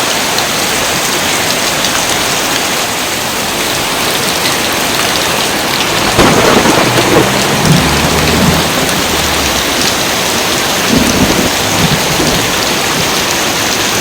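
Steady heavy rain with thunder rumbling: one long peal starts about six seconds in and lasts several seconds, and a second, shorter rumble comes near the end.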